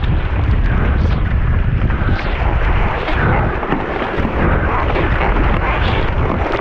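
Gale-force wind buffeting an action camera's microphone: a loud, steady low rumble that surges unevenly, with the rush of wind and water over a surfski running downwind.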